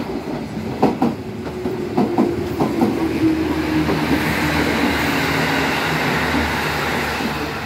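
Train wheels clacking over rail joints in a quick run of clicks as a Meitetsu 6500 series electric train pulls in, then a steady rumble with a slowly falling hum as a KiHa 85 series diesel limited express passes on the next line.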